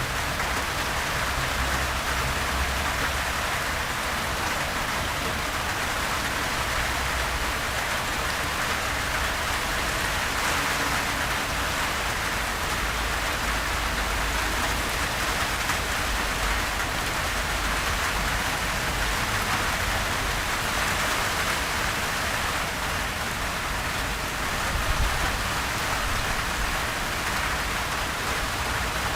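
Steady light rain falling, an even hiss of drops on surfaces with a soft low rumble underneath, unbroken and without thunder.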